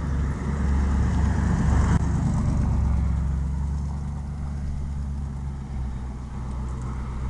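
A car driving past close by, its engine and tyre rumble swelling to a peak about two to three seconds in and then slowly fading as it moves away.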